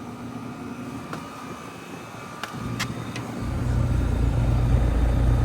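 Trane XL heat pump outdoor units running in cool mode: a steady hum, two short clicks around the middle, then a much louder low drone from about three and a half seconds in.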